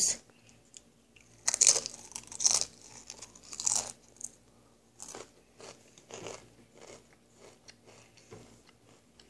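A Pringles cheddar cheese potato crisp being bitten and chewed: loud irregular crunches for the first few seconds, then softer chewing.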